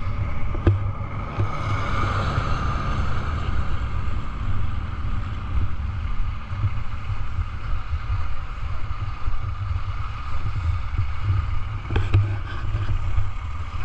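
Gravel truck's engine running with a steady low rumble, with a short knock about a second in and another near the end.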